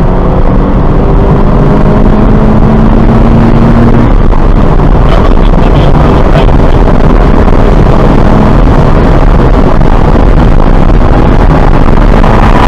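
2017 Subaru BRZ's flat-four engine accelerating hard, heard from inside the cabin. Its pitch climbs for about four seconds and then breaks off, as at a gear change. After that, loud wind and road noise covers the engine as speed keeps rising.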